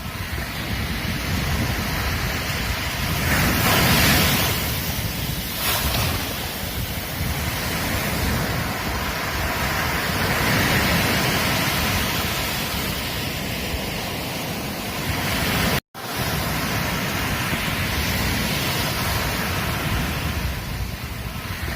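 Ocean waves breaking on a beach, the surf swelling and ebbing, loudest about four seconds in, with wind rumbling on the microphone. The sound drops out for an instant about sixteen seconds in.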